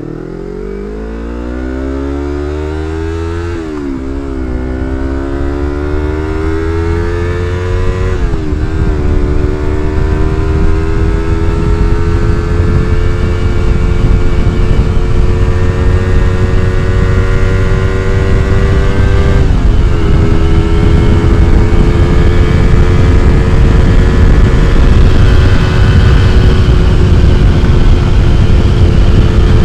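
Yamaha MT-25's 250 cc parallel-twin engine through an aftermarket R9 exhaust, pulling away and accelerating. The pitch climbs in each gear and drops at three upshifts, about four, eight and twenty seconds in. Wind rush on the microphone grows as speed builds.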